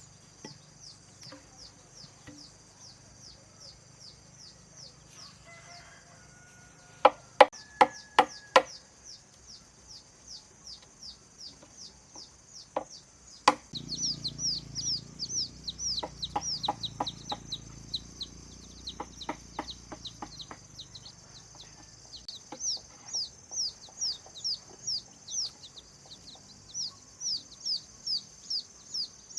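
Birds chirping rapidly and steadily in high, falling notes, with a quick run of five sharp, loud knocks about seven seconds in and lighter knocks later.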